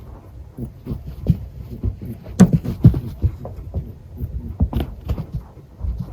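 Netherland Dwarf rabbit honking over and over, a rapid run of short low 'buu buu' grunts, the sound of a rabbit excited and happy at play. Two of the grunts, about two and a half and three seconds in, are louder than the rest.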